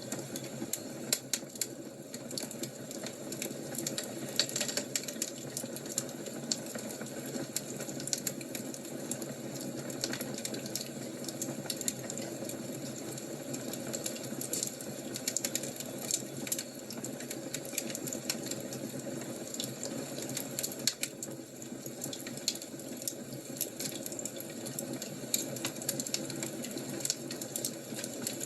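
Fire crackling: a steady hiss under frequent sharp snaps and pops at irregular intervals.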